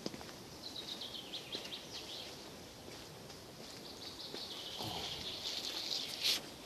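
Small songbirds singing in woodland: a quick run of chirping notes about a second in and a denser song later on. A sharp click near the end is the loudest sound.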